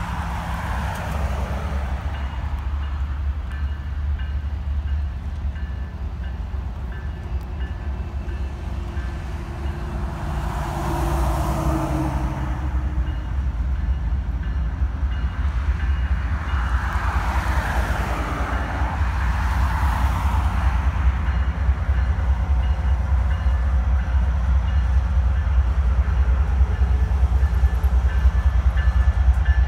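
Freight train running past, a steady low rumble that grows louder toward the end. Road traffic passes in front twice, its tyre noise swelling and fading about a third of the way in and again just past the middle.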